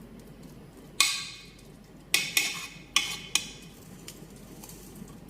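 A utensil clanking against a metal pan: one loud ringing clank about a second in, then four quicker clanks over the next second and a half.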